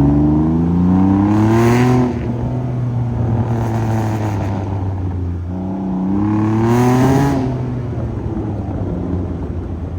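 Motorcycle engine revved hard twice, each rev climbing in pitch for about two seconds before dropping back to a steady low idle.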